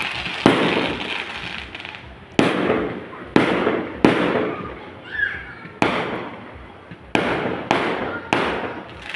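Fireworks going off: eight sharp bangs at uneven intervals, each followed by a fading tail.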